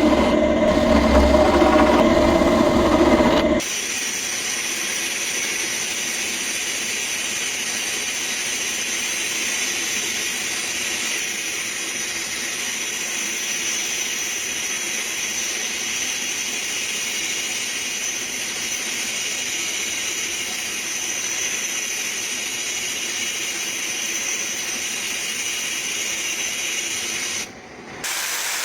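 A motor running with a low hum that cuts off suddenly about three and a half seconds in, followed by a steady high hiss with a thin high whine in it, which drops out briefly near the end.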